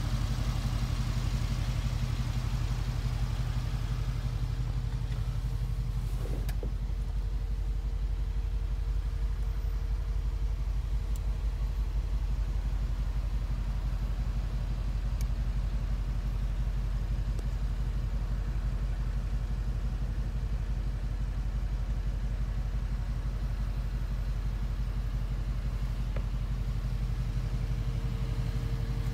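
Mercedes-Benz G550's twin-turbo V8 idling steadily in Park, heard from inside the cabin.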